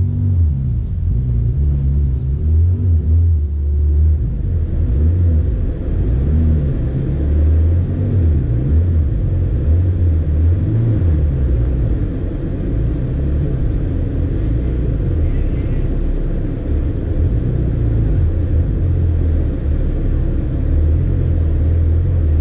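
Off-road vehicle's engine idling with a steady low rumble.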